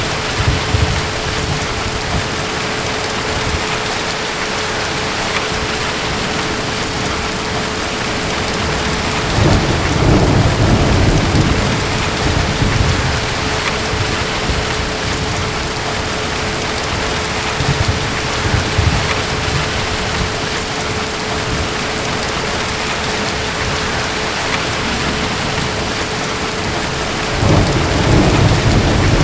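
Steady heavy rain with rolling rumbles of distant thunder, the strongest about ten seconds in and again near the end. A faint steady hum runs beneath the rain.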